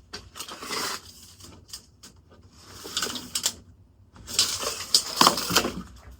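Handling noises while a wooden walking stick is measured: scattered light clicks and rubbing rustles, busiest about four to six seconds in.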